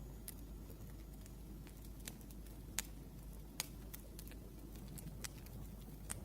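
Wood fire crackling: irregular sharp pops and snaps, two louder ones near the middle, over a low steady rumble.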